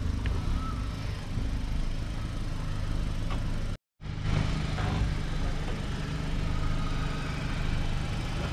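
Mahindra Thar SUV engine running steadily, with the sound cutting out completely for a moment about four seconds in.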